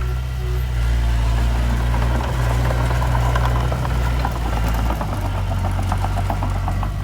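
Heavy diesel earthmoving machine engine running steadily, its note dropping a little about five seconds in. A fast metallic clatter rises over it from about two and a half seconds in.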